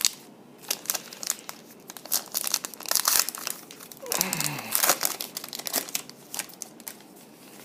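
Foil wrappers of trading card packs crinkling and tearing as packs are opened, in a run of short crackles and rustles with denser bursts about three seconds in and again around five seconds.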